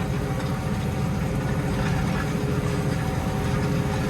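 New Holland T7220 tractor engine running steadily under load as it hauls a five-furrow plough up a hill.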